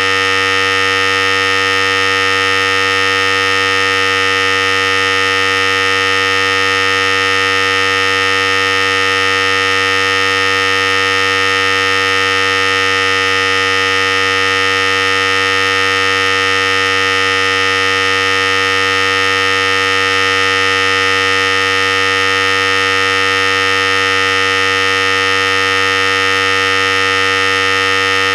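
Philips Series 5000 hair clipper running steadily, a constant electric buzz that holds the same pitch and loudness throughout.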